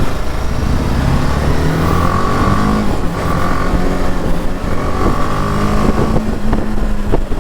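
Motorcycle engine running under way, its pitch stepping up and down with the throttle, over heavy wind rumble on the helmet microphone; a higher tone comes and goes a few times.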